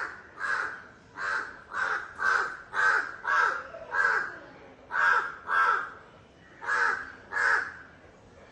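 A crow cawing: a run of about a dozen harsh caws, several coming in pairs with short pauses between.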